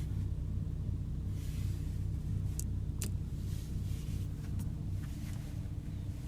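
Porsche Cayenne S's twin-turbo V6 idling, a steady low rumble heard inside the cabin, with a few faint clicks.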